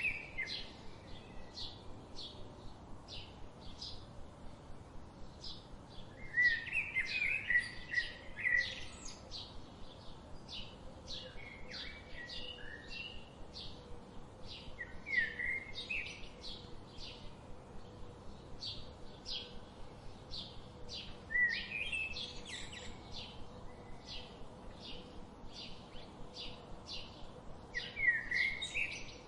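Wild songbirds: one bird gives a steady, even series of short high chips, about two or three a second. Other birds break in every few seconds with short warbled song phrases.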